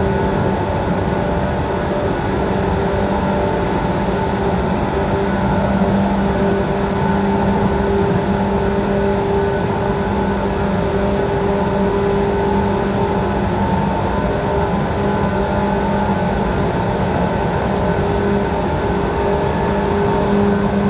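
JR East 185 series electric multiple unit running at a steady speed, heard from inside the passenger car: a steady rumble of wheels on rail with a few held humming tones.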